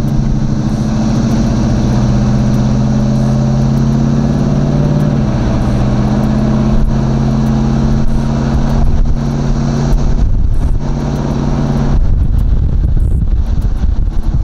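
Box Chevy Caprice's stock small-block V8 running as the car cruises, heard from inside the cabin: a steady, even drone that holds its pitch, then gives way to rougher, noisier sound about twelve seconds in.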